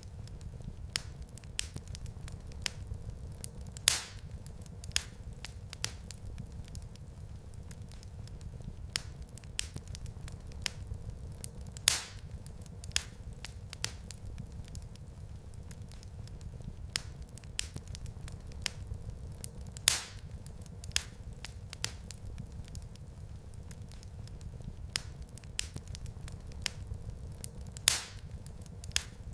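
Wood fire crackling in a fireplace: a steady low rumble of flames with scattered sharp pops and snaps, the loudest pops coming about every eight seconds.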